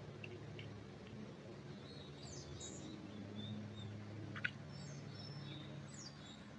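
Small birds giving short, high chirps and quick falling notes in a pine forest, over a steady low hum. A single sharp click about four and a half seconds in is the loudest sound.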